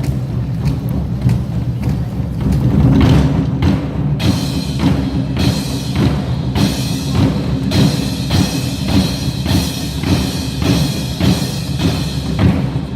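Nanta drumming: a group striking big drums in rhythm over backing music, the music filling out about four seconds in.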